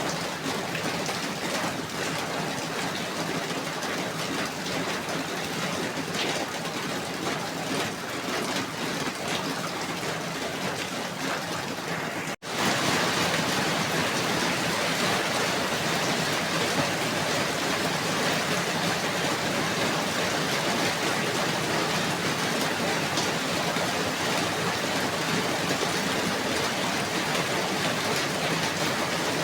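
Steady heavy rainfall. About twelve seconds in the sound drops out for an instant and comes back louder and brighter, a splice in the looped recording.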